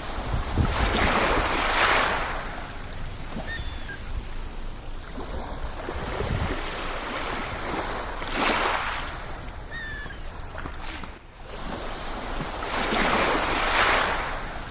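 Sea waves washing onto a shore, with three swells of surf about every five or six seconds and wind rumbling on the microphone. A few faint, short bird calls come through between the waves.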